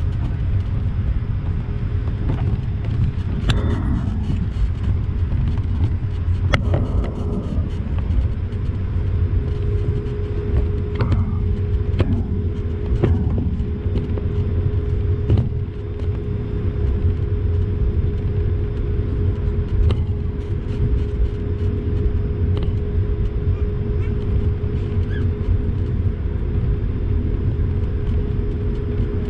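Steady low rumble inside the cabin of an Airbus A220-300 rolling on the ground after landing, its Pratt & Whitney PW1500G geared turbofans at idle. A few scattered clicks and knocks sound through it, and a steady hum sets in about ten seconds in.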